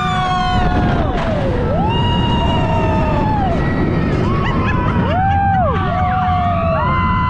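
Several roller-coaster riders screaming in long, overlapping cries that rise and fall in pitch, with heavy wind rushing over the microphone during a ride on a dive coaster.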